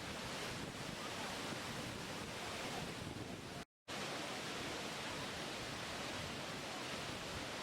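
Steady rushing of water, an even hiss with no pitch or rhythm, which cuts out completely for a split second about three and a half seconds in and then carries on as before.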